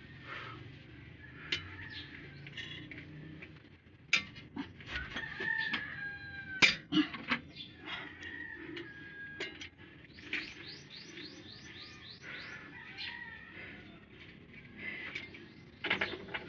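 A rooster crowing once about five seconds in, with a quick run of short chirps around ten seconds in, over scattered sharp clicks and knocks.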